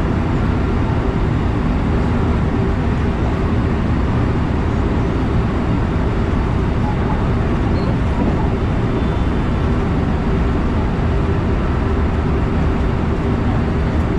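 Electric passenger train running along the line, heard from inside the car just behind the driver's cab: a steady rumble of wheels on rail with a low, even hum underneath.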